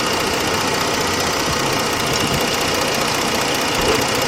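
The 3.7-litre V6 of a 2006 Jeep Grand Cherokee idling steadily.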